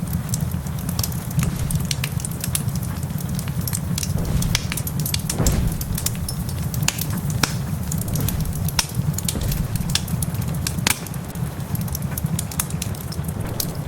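Wood fire crackling in a fireplace, with many sharp, irregular pops over a steady low rumble, while rain patters in the background.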